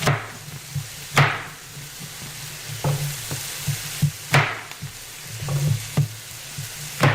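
Vegetables sizzling in oil in an electric deep-dish skillet. A utensil stirring and knocking against the pan makes several sharp clicks, about a second or so apart.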